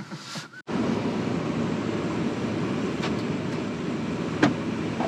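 Steady running noise of a car driving, starting abruptly after a cut less than a second in, with a single click about four and a half seconds in.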